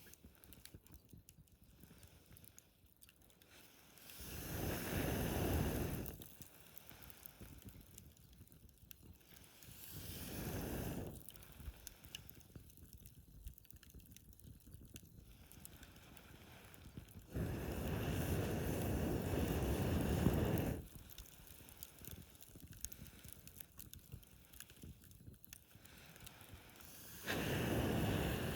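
Campfire crackling faintly with scattered small pops, broken four times by gusts of wind buffeting the microphone, each lasting one to three seconds.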